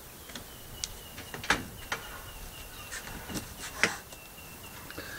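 Scattered sharp clicks and taps, a handful of them, over a faint steady high whine.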